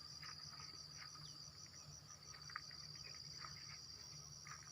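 Faint, steady high trilling of an insect chorus, with a few short faint chirps scattered through it.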